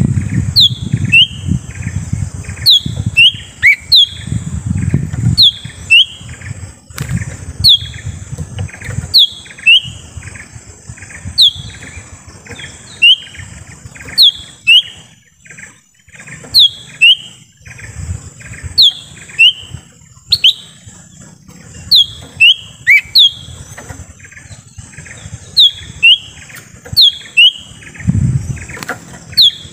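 Cucak ijo mini (lesser green leafbird) calling: loud, short down-slurred whistled notes, often in pairs, repeated every second or so, the kind of call used as a lure to bring in wild birds. A steady high-pitched hiss runs underneath, with low rumbling near the start and again near the end.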